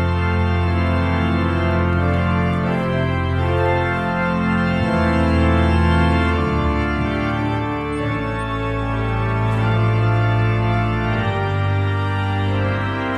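Church organ playing a slow closing voluntary: held chords over deep bass notes, changing every second or two.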